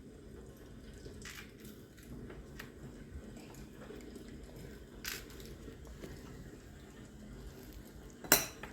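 Someone biting and chewing a crunchy snack: a few crisp crunches spread out, with one sharp, louder click near the end.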